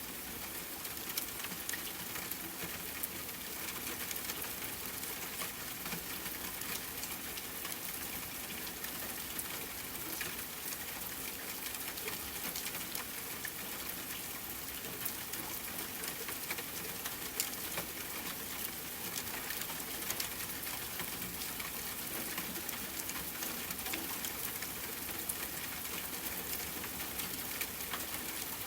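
Steady rainfall blended with a crackling wood fire, a continuous hiss of rain dotted with many small sharp pops and crackles.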